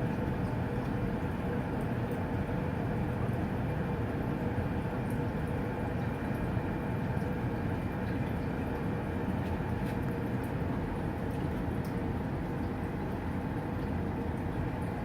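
Steady rushing, running noise with a faint hum, as from a Honeywell HE300 whole-house humidifier operating on a forced-air furnace, with a few faint ticks.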